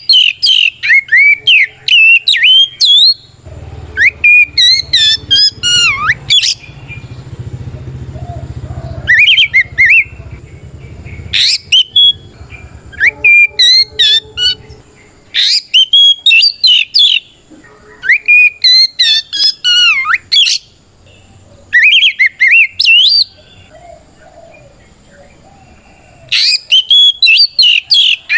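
Oriental magpie-robin singing loudly: repeated phrases of rapid, sweeping whistled notes with short pauses between them. This is the loud, open 'ngeplong' song by which a male calls out a rival.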